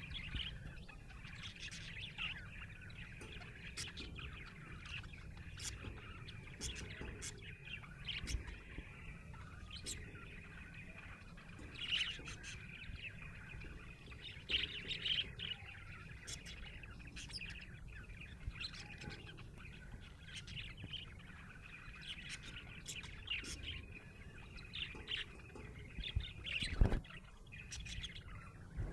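Budgerigar chirping and chattering: a steady stream of short, high chirps and clicks. A low thump comes near the end.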